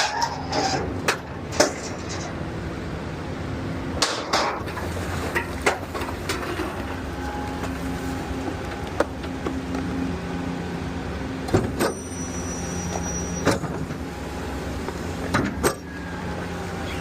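Garbage truck's engine running steadily, with a string of sharp metal bangs and clanks as an 8-yard dumpster is lifted and emptied into the truck. A brief high whine comes in about twelve seconds in.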